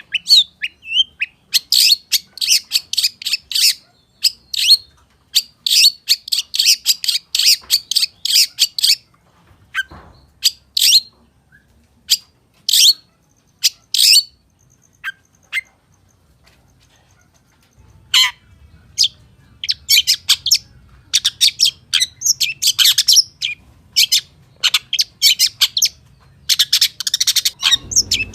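Long-tailed shrike (pentet, cendet) singing a fast, chattering song stuffed with imitations of other birds' calls: dense runs of short, sharp high notes, thinning to scattered single notes and a brief lull near the middle before picking up again.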